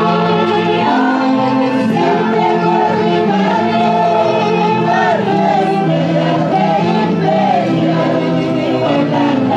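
Live music from a festival saxophone orchestra, several wind instruments playing a melody together without pause.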